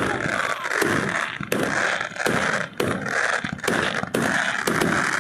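Fireworks going off in a rapid series of sharp bangs, about two a second, over a continuous crackling hiss.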